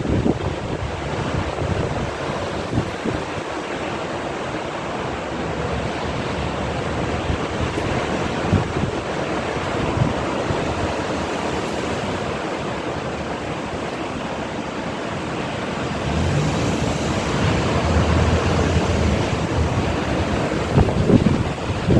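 Rough sea with waves surging and breaking in a strong wind, the wind buffeting the microphone. The gusts grow harder in the last few seconds.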